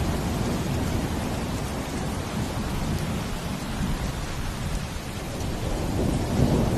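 Steady rain hiss over a deep, continuous rumble that eases a little in the middle and swells again near the end.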